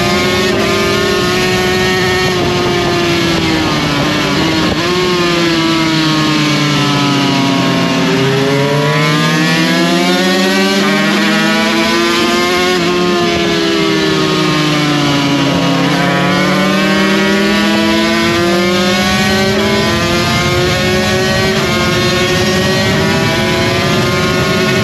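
Racing motorcycle engine heard from on board, the bike being ridden hard. The revs rise and fall in long sweeps: they sink to two low points about eight and sixteen seconds in, climb again after each, and hold high near the end.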